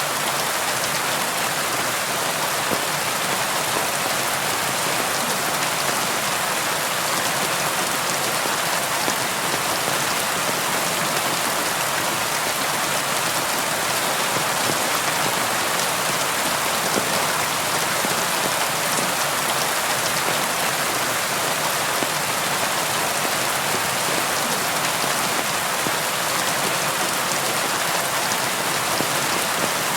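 Steady rain falling: an even, unbroken hiss of many drops, with the patter of single drops throughout.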